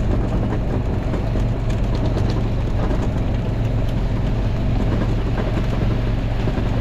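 Small off-road vehicle's engine running steadily, with an even low hum that holds throughout.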